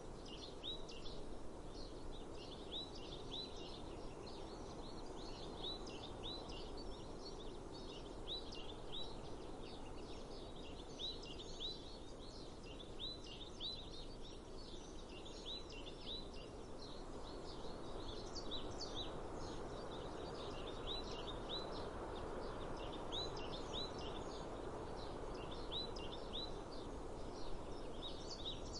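Small birds chirping in quick repeated clusters over a steady outdoor wash of breeze and ambient noise.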